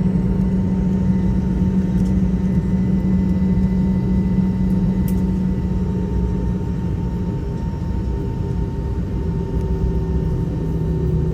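Steady cabin rumble of an Airbus A320 taxiing after landing, engines at idle, with a faint steady whine; a low hum in the rumble eases off about seven seconds in.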